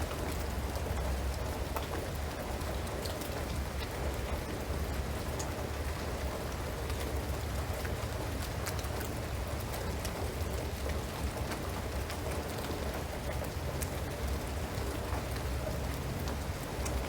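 Steady rain falling on a shingled roof and pine trees, with many scattered drops ticking over an even hiss and a steady low rumble underneath.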